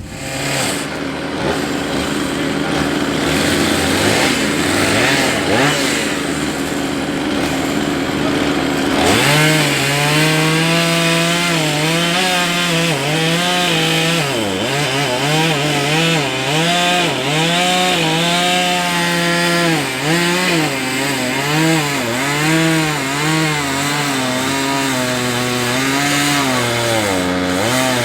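Two-stroke chainsaw running. From about nine seconds in, its pitch repeatedly drops and recovers as the chain loads up in the wood and frees again.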